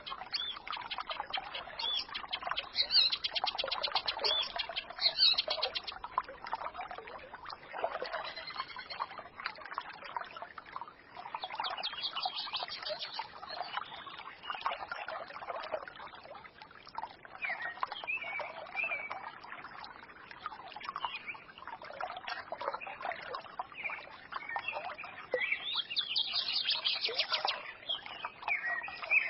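Forest stream babbling and trickling, with small birds singing and twittering over it in short phrases and fast trills.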